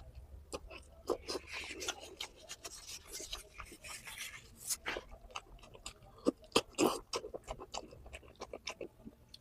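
Close-up eating sounds: wet chewing and lip smacking in many short irregular clicks, with a soft rustling stretch in the first half and a few sharper clicks about six to seven seconds in.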